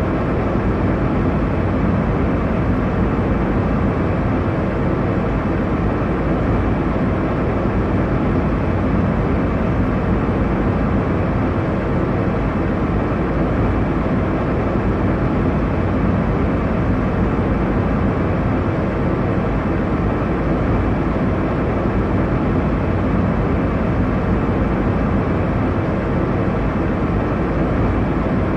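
Airliner cabin noise: a steady, unchanging rush of engine and airflow noise, heaviest in the low end, with no events or changes.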